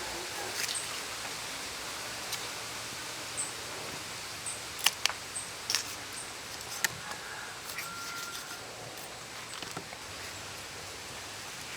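Rural outdoor ambience: a steady hiss with faint, short, high chirps, and a few sharp clicks or taps from about five to seven seconds in.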